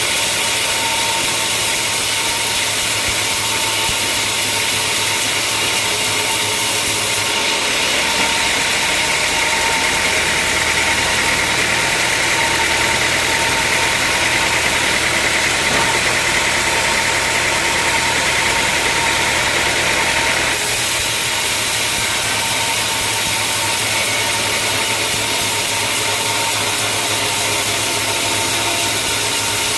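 Sawmill machinery running steadily with a constant hum. For a stretch of about thirteen seconds in the middle, a brighter, hissing sound is added over the running, then stops.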